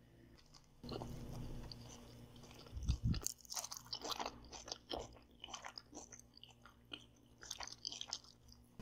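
A person biting into a burger of sesame bun, lettuce, tomato and beef patty about three seconds in, then chewing it close to the microphone with many short crisp crunches.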